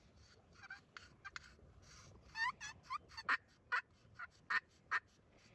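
Friction turkey call scraped by a small child, imitating hen yelps. A few soft scratchy notes come first, then from about two seconds in a run of sharp, short yelps, about two a second.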